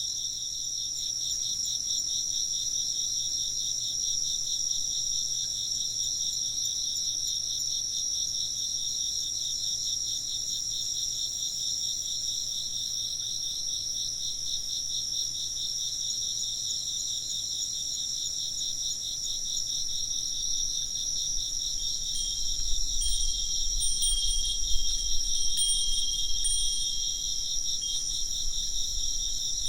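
Insects chirping in a steady, fast-pulsing high trill. About two-thirds of the way in, a Japanese wind bell (fūrin) begins to ring over them with a low rumble beneath.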